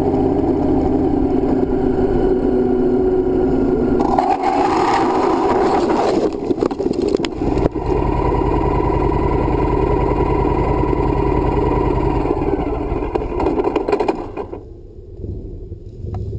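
Motorcycle engine running with heavy wind noise. A harsh scraping burst comes about four seconds in, with a sharp click a couple of seconds later. The sound drops away and gets much quieter about fourteen seconds in.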